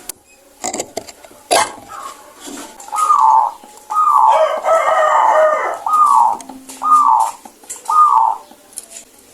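Zebra dove (perkutut) calling: a run of short, loud, falling notes about a second apart, starting about three seconds in, with one longer, rougher call among them. Two sharp clicks come before the calls.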